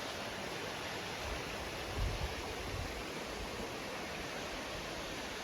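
Jokkradin Waterfall's water rushing: a steady, even roar of falling water. The falls are running full for the dry season.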